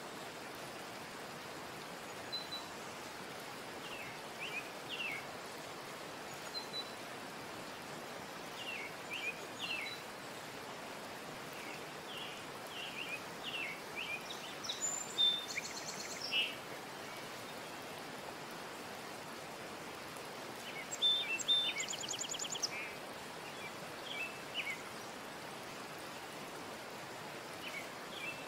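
Small birds chirping in short, scattered calls over a steady hiss, with a fast trill twice, about halfway through and again near two-thirds of the way.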